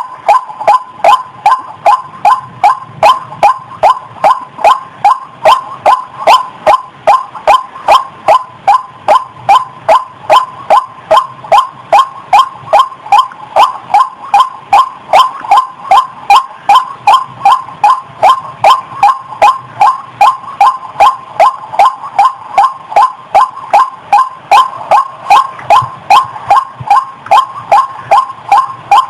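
A female waterhen (ruak-ruak) giving a fast, monotonous series of short calls, about three a second, kept up without a break. This is the call of a hen in breeding condition, used as a lure.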